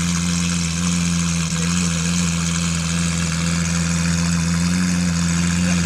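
Lamborghini Aventador's V12 engine idling, a steady low hum that holds even without revving.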